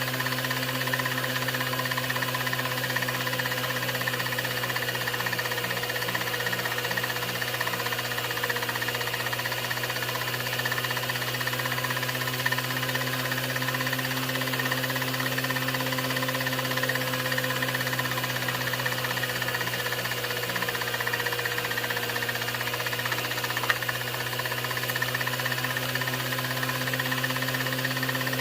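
16mm film projector running: a steady mechanical hum with a few faint clicks.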